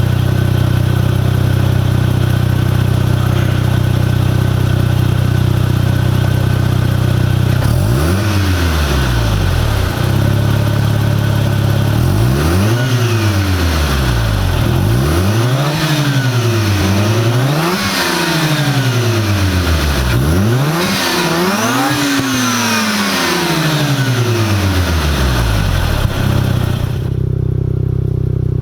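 1990 Mazda RX-7 Turbo II's turbocharged twin-rotor 13B rotary engine, breathing through an aftermarket downpipe, stock catalytic converter and a Fujitsubo Legalis R exhaust. It idles steadily at first, then is blipped through a series of free revs, each rising and falling in pitch, before settling back to idle near the end.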